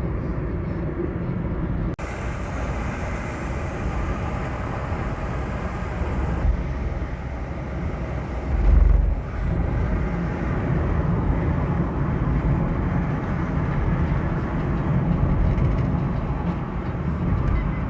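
Road and engine noise heard inside a car moving in slow traffic, a steady low rumble that swells briefly about nine seconds in.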